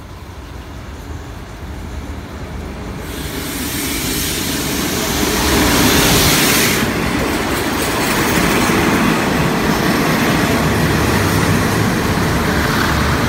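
An Alsthom diesel-electric locomotive hauling a passenger express train comes into the station and passes close by, its sound growing louder to a peak about six seconds in. Passenger coaches then roll steadily past on the rails.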